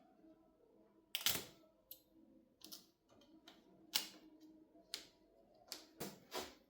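A series of irregular sharp clicks and taps, about eight in all, over a faint background.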